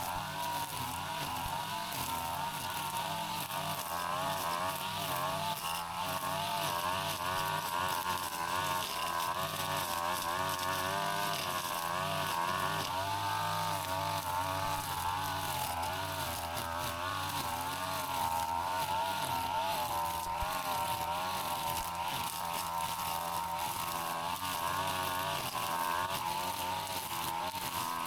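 Brush cutter engine running without a break, its pitch wavering up and down as the load changes while it cuts through grass and weeds.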